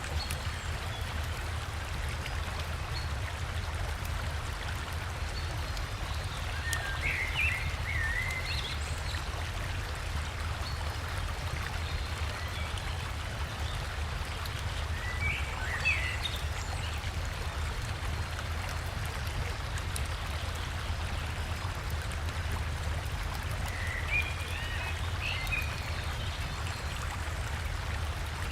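River water rushing steadily over a small waterfall, with a deep low rumble under it. A songbird sings three short, warbling phrases over the water noise, at roughly eight-second intervals.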